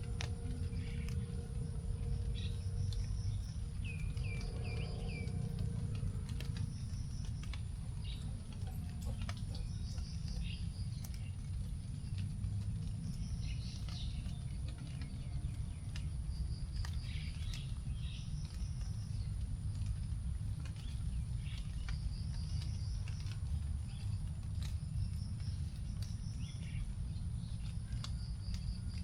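Tropical forest after rain: scattered raindrops ticking onto leaves, birds chirping again and again, and a steady high-pitched insect drone. A short run of about four quick bird notes comes about four seconds in, over a low rumbling background.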